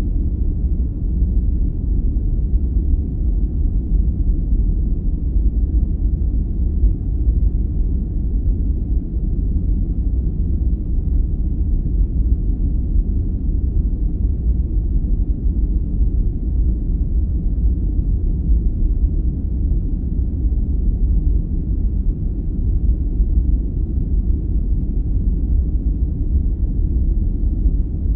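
Steady, deep rumbling noise of a sleep-aid noise track, with its energy almost all in the low end and no high hiss. It stays even throughout, without events or changes.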